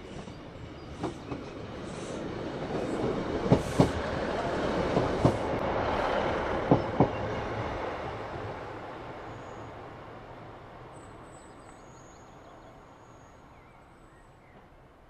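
Class 156 Sprinter diesel multiple unit passing close by, growing louder to a peak and then fading as it runs away. Sharp clicks come in pairs as its wheels cross rail joints.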